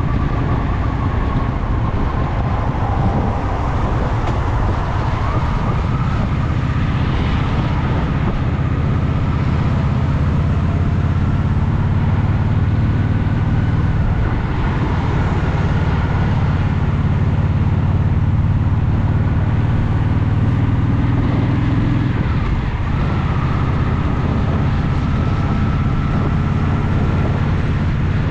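Honda Shadow VT750's V-twin engine running as the motorcycle rides along, with road and wind noise over it. The engine note grows stronger a little before halfway and eases off about three quarters of the way through.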